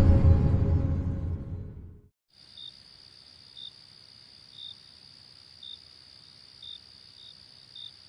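A deep boom with music fades out over the first two seconds. After a moment of dead silence, crickets chirp faintly about once a second over a steady high insect drone.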